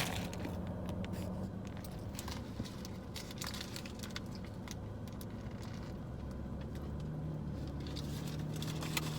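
Close-miked eating: chewing a pulled pork sandwich, with many small irregular clicks and crackles of mouth and food sounds and a faint low steady hum underneath.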